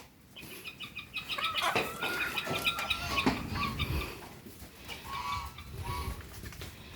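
Chickens clucking: a quick run of short calls in the first half, then a few sparser clucks.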